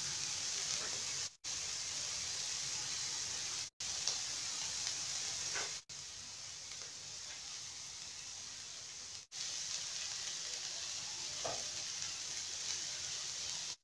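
Marinated shawarma strips frying in oil in a pan, a steady sizzle. The sizzle drops out for an instant four times.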